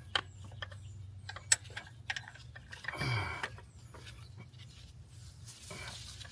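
Hand-tool clicks and metal knocks from wrenching on the AC compressor mounting, the sharpest about a second and a half in, with a short low grunt from the mechanic about halfway through and a steady low hum underneath.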